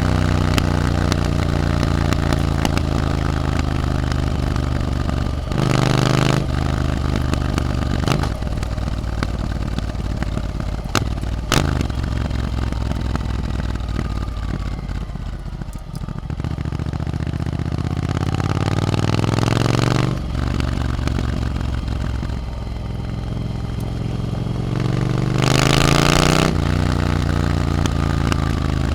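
Triumph Scrambler 900 parallel-twin engine through an aftermarket Arrow exhaust while riding: the engine note climbs and falls with throttle and gear changes, with a steady rise in pitch about two-thirds of the way through. Several brief louder bursts occur, at about six seconds in, at about twenty and near the end.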